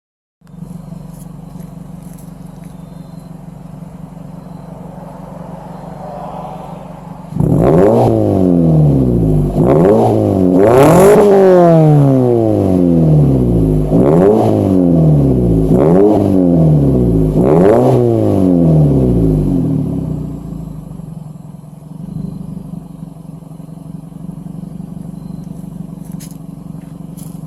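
2011 Mitsubishi Outlander Sport's 2.0-litre four-cylinder engine, with the rear catalytic converter and muffler deleted, idling through the open exhaust. About seven seconds in it is revved several times in a row, each rev rising and falling in pitch and much louder than the idle, then it drops back to a steady idle.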